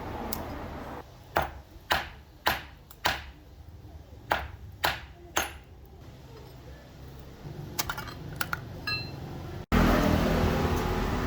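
Metal being struck: about seven sharp strikes roughly half a second apart, each followed by a short metallic ring, then a few lighter ticks. Near the end the sound cuts suddenly to a louder, steady rumble.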